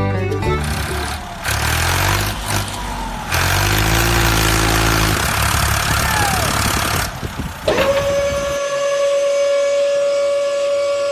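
Truck engine running with a loud mechanical rumble, its pitch rising and falling a few times. About eight seconds in, a steady, siren-like tone swoops up and holds.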